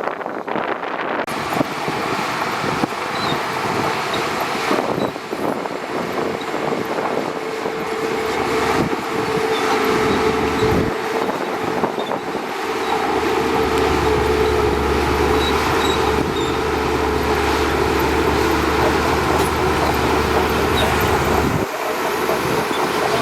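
Shantui DH17C2 bulldozer's diesel engine running steadily with a constant whine. About halfway through, a deeper low rumble comes in as the machine works harder, then drops away shortly before the end.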